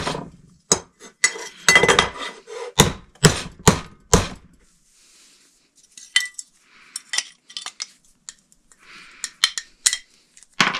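Metal striking a steel pancake ceiling box to knock out a punch-out: about eight sharp hits in the first four seconds, then lighter metallic clinks and handling.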